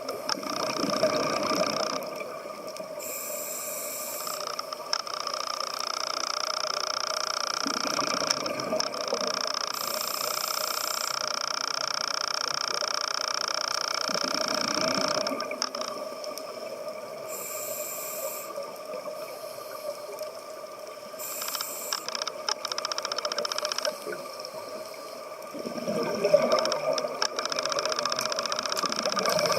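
Scuba diver breathing through a regulator underwater: a short hiss on each inhalation every few seconds, and gurgling bubble bursts on each exhalation, over a steady hum.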